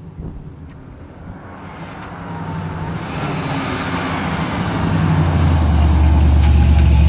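A 1960s Chevy pickup's small-block V8 drawing closer, growing steadily louder until its low exhaust note dominates, and running close by near the end.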